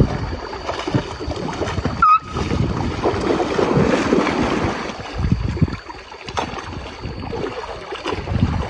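Water splashing and sloshing as elephants play in it, with wind buffeting the microphone. A brief high squeak about two seconds in.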